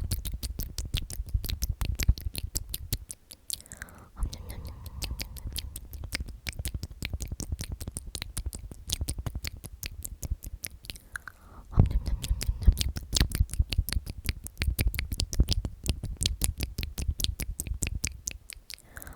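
Close-miked ASMR trigger sounds: rapid, dense clicking and crackling, many clicks a second, with a soft low rumble under it.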